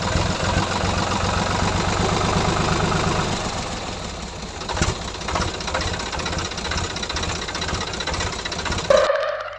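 Small engine running steadily with a rapid knocking, cutting off suddenly near the end.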